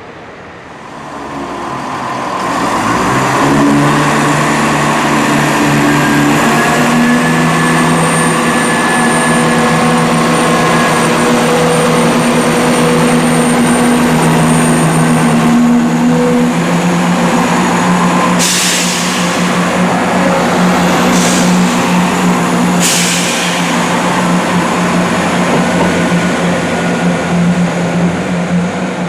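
Diesel train's engine heard on board, building up over the first few seconds and then running steadily under power, its pitch stepping as it pulls. About two-thirds of the way through come three short bursts of noise.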